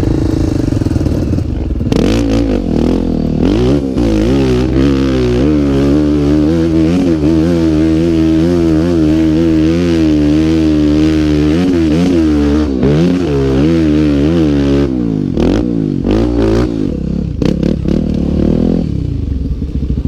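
Dirt bike engine revving hard under load as it climbs a steep dirt hill, the pitch rising and falling constantly for about thirteen seconds, then dropping back to short, broken revs.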